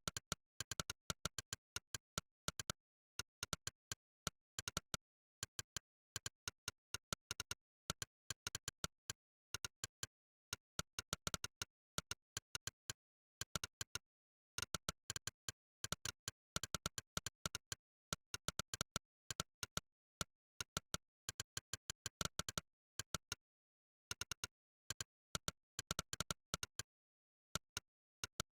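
Monkeytype's 'click' typing sound effect: a fast run of short, sharp synthetic clicks, one for each keystroke, coming in bursts with brief pauses between them.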